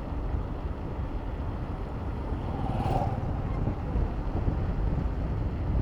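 Wind rumbling on the microphone of a riding bicycle, mixed with city road traffic noise. A brief, louder sound comes about three seconds in, most likely from a passing vehicle.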